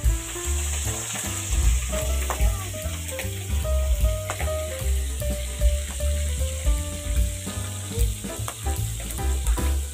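Prawns sizzling in hot oil in an iron kadai as they are spooned in and stirred, a steady hiss over background music with a regular beat.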